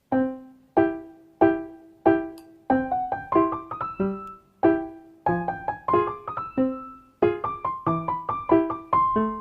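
Piano playing: four slow struck chords, each left to ring and fade, then a quicker run of notes and chords from about three seconds in.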